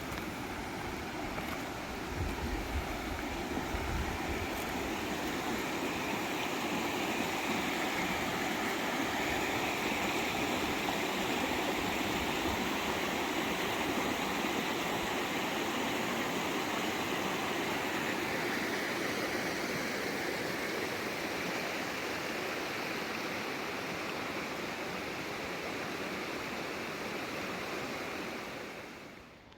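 River water rushing steadily, fading out near the end.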